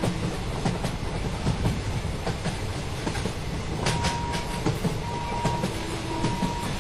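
Malda Intercity Express passenger train running past: a steady rumble with the wheels clicking over the rail joints. From about four seconds in, a faint high tone comes and goes.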